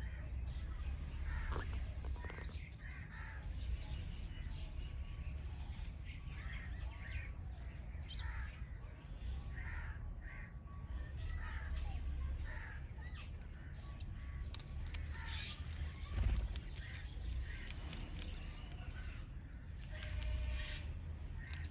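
Birds calling, many short separate calls one after another, over a steady low rumble. In the second half a run of quick sharp clicks joins in.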